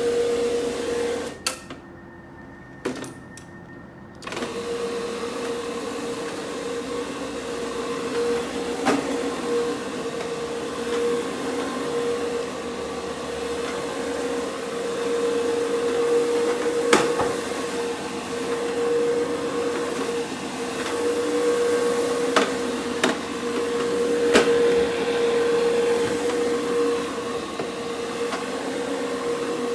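Carpet cleaning machine running with a steady hum, which drops away for about three seconds near the start. A few sharp clicks sound over it.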